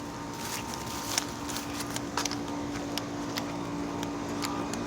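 Steady hum of a running outdoor air-conditioner condenser unit, with scattered light clicks.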